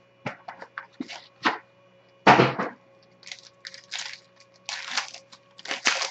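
A trading card box's packaging being opened and handled by hand: irregular crinkles and snaps of wrapping and cardboard, with one louder, longer crackle about two seconds in.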